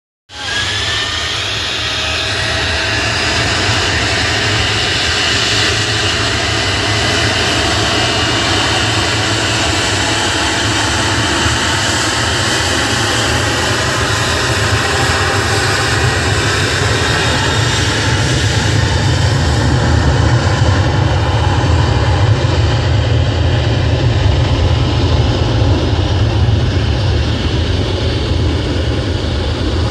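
Boeing 737-800's CFM56-7B turbofan engines at takeoff thrust: a loud, steady jet engine noise with a high whine, growing a little louder around twenty seconds in.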